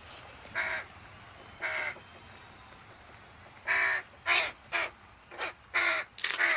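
A young pet crow cawing: a few spaced short calls, then a quicker run of about six caws from about four seconds in.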